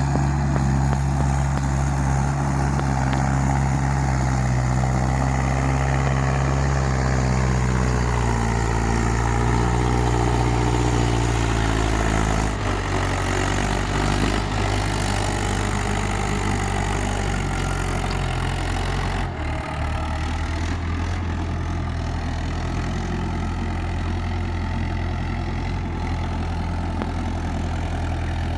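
Mahindra 575 tractor's four-cylinder diesel engine running steadily, at about idle speed; about twelve seconds in its note shifts to a lower, steadier speed, with a brief dip near twenty seconds.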